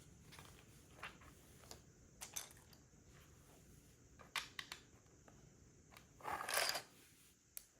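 Plastic Lego pieces clicking and knocking as they are handled and pressed together, a few sharp clicks a second apart. About six seconds in comes a louder, half-second rustle.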